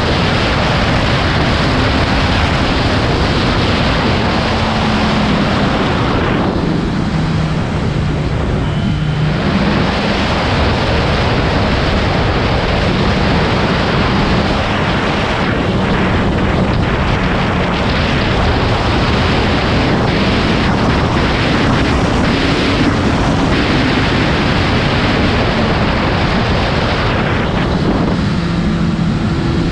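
Heavy wind rush over the microphone of a motorcycle at speed, with the engine's note faintly under it, rising and falling with the throttle. The rush eases briefly about seven seconds in and again near the end.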